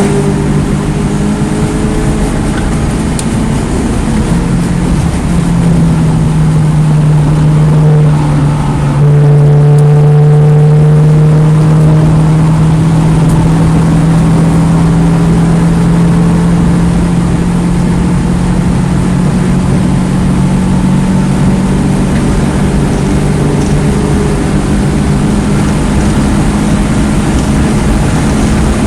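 2009 Mini Cooper S (R56) turbocharged 1.6-litre four-cylinder engine running hard under load on track, its note drifting slightly up and down and loudest about nine seconds in, over steady road and wind noise.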